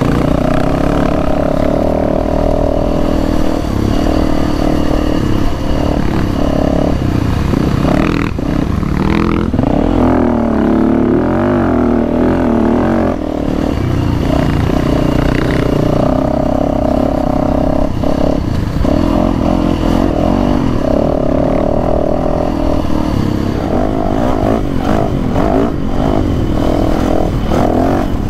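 Dirt bike engine running hard on a gravel trail, heard up close from the rider's own bike, its pitch rising and falling as the throttle opens and closes.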